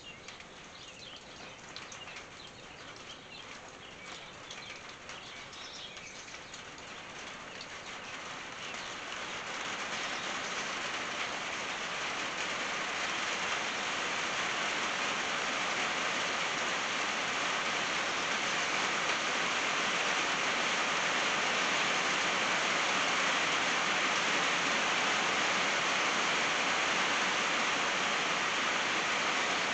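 Rain on a tin roof: at first a sparse patter of separate drops, then it thickens and grows louder over about the first ten seconds into a steady, dense rain.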